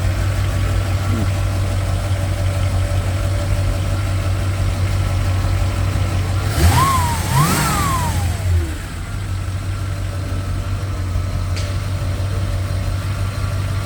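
1950 Chevrolet Sedan Delivery's engine idling steadily, revved twice in quick succession about halfway through, then settling back to a smooth idle.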